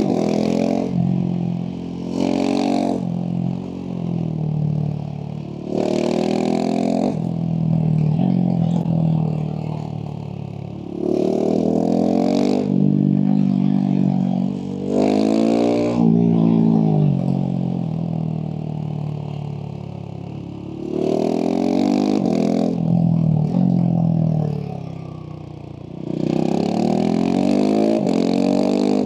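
Husqvarna 701 SM's single-cylinder engine through a LeoVince slip-on exhaust, pulling hard in repeated bursts with the pitch climbing and dropping at each gear change, then easing off between them.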